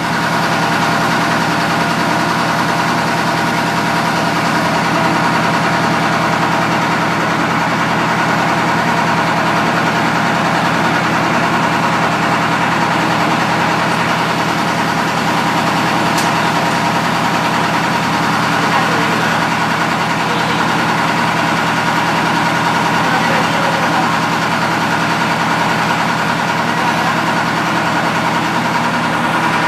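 Heavy diesel engine idling steadily at an even speed.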